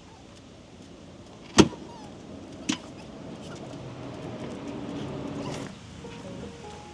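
A sharp click, then a lighter click about a second later, followed by a small electric motor whirring steadily for about three seconds before it stops. Soft music begins near the end.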